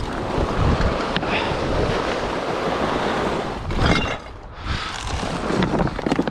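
Something large, likely the improvised sign, being dragged across the ground: a steady scraping rustle, with a louder scrape about four seconds in.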